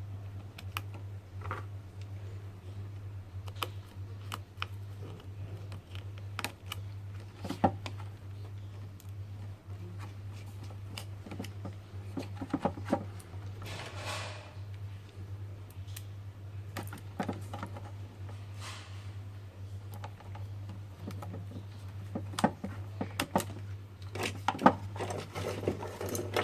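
Scattered small clicks and taps of hands and tools on the incubator's plastic and metal parts during disassembly, with a brief scrape about halfway and a busier run of taps near the end, over a steady low electrical hum.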